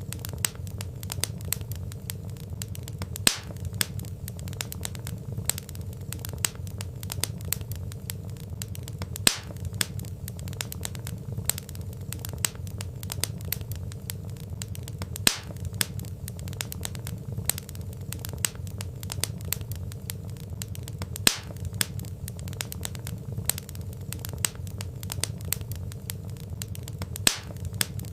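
Wood fire crackling: a dense run of small crackles over a low steady rumble, with a louder sharp pop about every six seconds.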